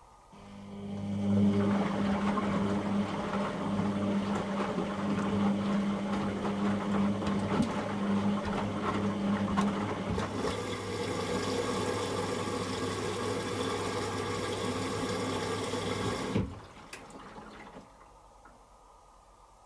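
Beko WTG620M1 washing machine's drain pump humming as it pumps water out, with rushing, gurgling water. About ten seconds in the sound turns more airy and splashy, and about 16 seconds in the pump cuts off abruptly.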